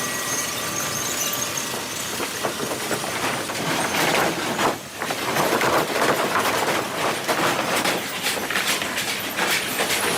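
Sawmill machinery running, lumber and metal clattering in a dense, irregular rattle as the sawing and conveying line handles boards; it dips briefly about five seconds in.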